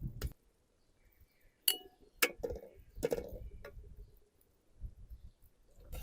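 Kitchenware clinking: about six sharp knocks of hard objects, a few of them ringing briefly.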